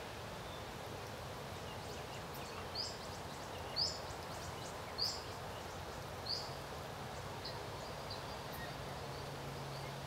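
A bird calling: four short, high chirps about a second apart, followed by a few fainter high notes, over a steady outdoor hiss.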